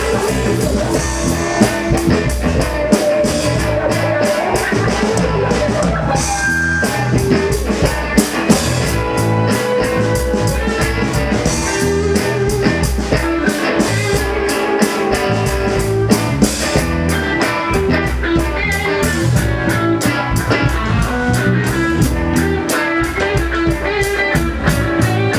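Live rockabilly blues band playing an instrumental passage: guitar over bass and a drum kit keeping a steady beat.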